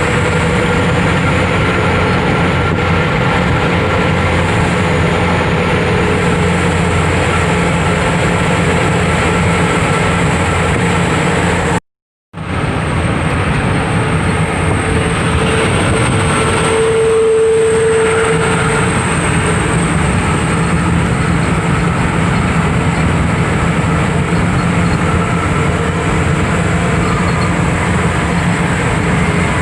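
Truck driving on the road: steady engine drone and road rumble, with a brief total cut-out about twelve seconds in.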